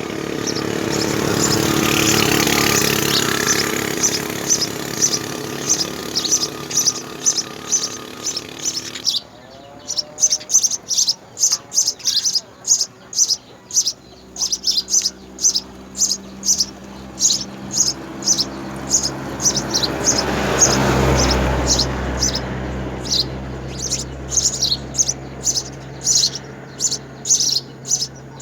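House sparrows chirping at the nest in a steady run of short, high chirps, two to three a second. A vehicle passes twice, swelling and fading, about two seconds in and again past the middle.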